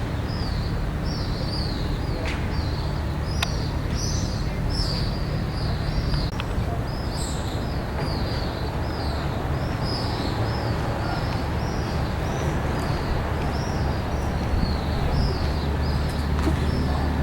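Small birds chirping in a continuous run of short high notes, about two or three a second, over a steady low rumble.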